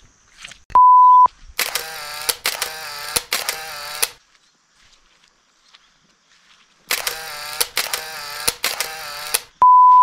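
Electronic beeps of one steady pitch, very loud, each about half a second long: one about a second in and one at the end. Between them come two runs of three short buzzy pitched tones, separated by a few seconds of near silence.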